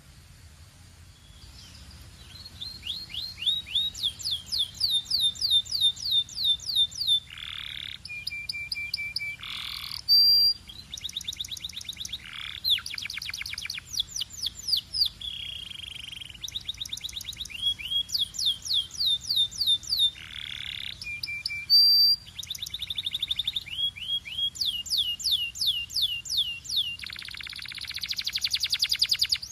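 Domestic canary singing a long, continuous song: phrase after phrase of rapidly repeated, identical downward-sweeping whistles, alternating with fast trills and a few short buzzy rolls. It starts softly and grows louder in the first couple of seconds.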